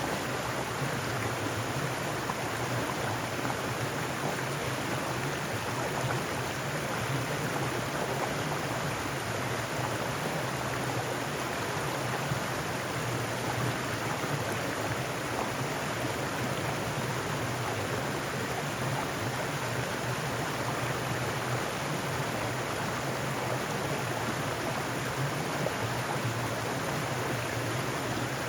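Mountain stream running over rocks, a steady, unbroken sound of flowing water.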